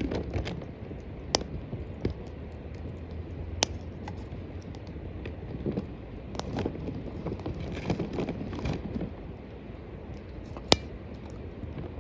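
Small wood fire in a metal cooking bowl crackling, with three sharp pops a little over a second in, near four seconds in and near the end, over some rustling.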